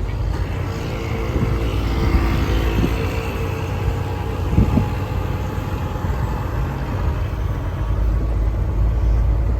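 Truck driving on snow-covered streets, heard from inside the cab: a steady low engine and road rumble, with a brief knock about halfway through.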